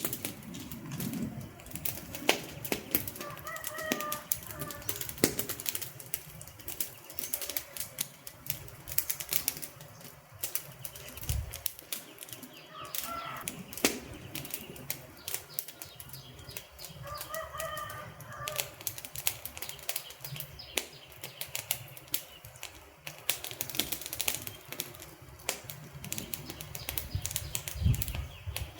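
Wood fire burning with dense, irregular crackling and popping of the logs. Two brief low thuds sound, about a third of the way in and near the end.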